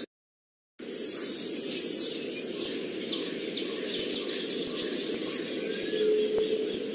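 Daytime forest ambience: a dense, steady insect drone with a high whine, and scattered short bird chirps over it. It begins after a moment of dead silence.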